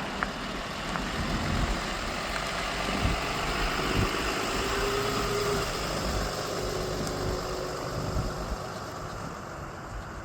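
Mulch truck's engine running steadily, with a faint held tone sounding over it twice in the middle.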